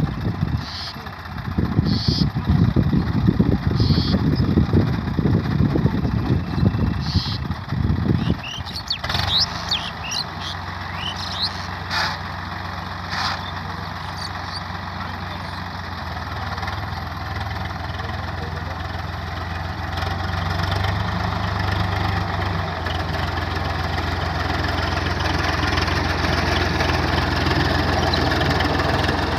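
Swaraj 855 FE tractor's diesel engine running. For about the first eight seconds a heavy, uneven low rumble covers it. Then it settles into a steady hum that grows slightly louder toward the end, with a few sharp clicks and squeaks around ten to thirteen seconds in.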